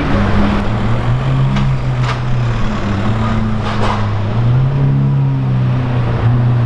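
A supercar's engine running at low revs, its note lifting slightly a couple of times, with a few brief clicks over street noise.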